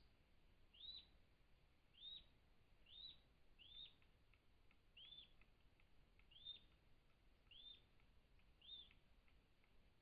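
A bird repeating a short, faint call, a quick note that rises and falls, eight times at about one-second intervals.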